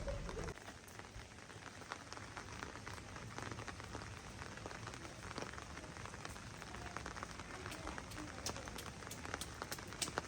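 Rain falling, many separate drops ticking irregularly over a steady hiss.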